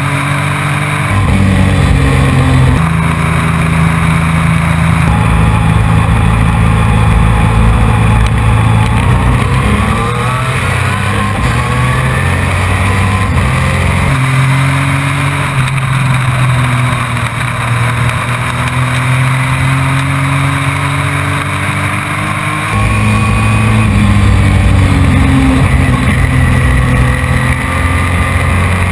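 Race truck engine at racing speed, heard from onboard. It runs loud and continuous, its pitch dropping and climbing again several times as the truck laps.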